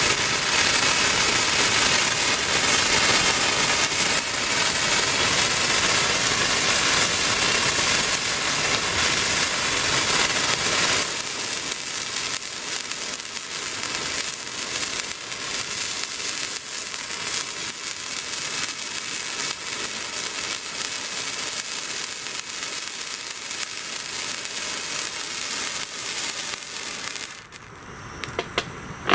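Handheld spark firework burning with a loud, steady hiss and crackle; its sound changes around 11 seconds in and it stops abruptly a couple of seconds before the end as it burns out.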